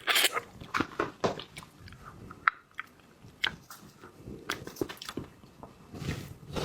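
Close-miked eating of shellfish: irregular crunching, cracking and wet chewing sounds, busiest in the first second and again near the end.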